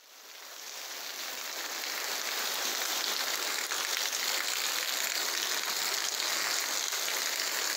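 Heavy rain falling, a steady hiss that fades in over the first two seconds and then holds level.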